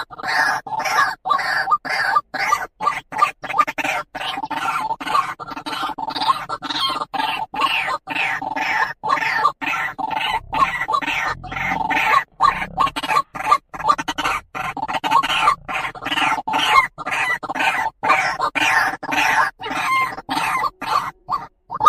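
White-breasted waterhen (truwok, ruak-ruak) calling: a fast run of short repeated notes, several a second, broken by brief gaps.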